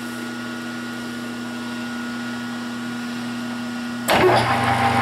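Metal lathe running with a steady hum. About four seconds in, a louder, noisier machine sound with a higher whine starts abruptly.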